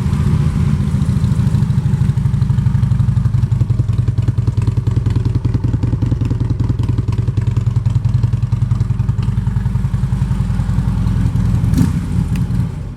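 A 2016 Harley-Davidson Street Glide's 103 cubic inch V-twin idles steadily through aftermarket Vance & Hines exhaust pipes, with an even, pulsing exhaust beat. The engine is shut off near the end.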